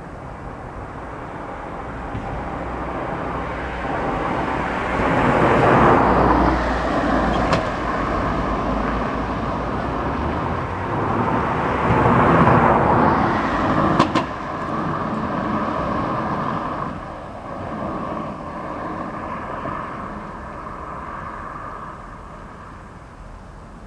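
Scania Citywide LF low-floor city bus driving past on the street. The noise swells twice, about six and twelve seconds in, with a sharp click about fourteen seconds in, then fades away.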